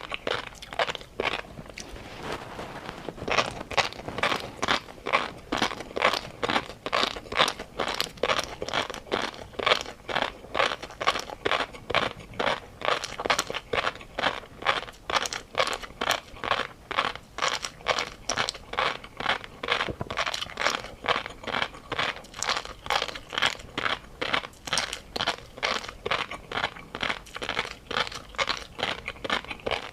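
A person chewing food close to the microphone, with crunchy, wet chewing sounds in a steady rhythm of about two to three chews a second.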